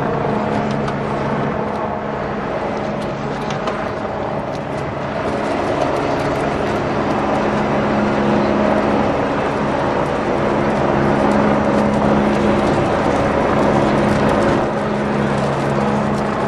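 A vehicle engine running steadily: a constant low drone with a held hum, with no big change in level.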